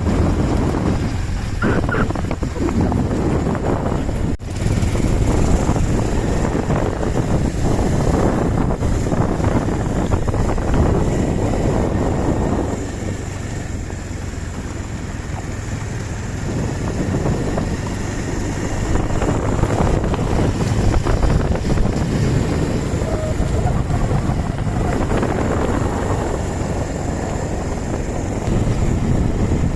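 Wind rushing over the microphone of a moving motorcycle, mixed with the low rumble of the engine and road. It eases off for a few seconds around the middle, then picks up again.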